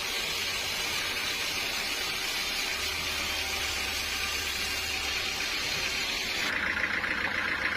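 Sawmill machinery running with a steady hissing rush, a low hum coming in partway through. About two-thirds of the way in the sound changes: the highest part drops away and it turns slightly louder and narrower.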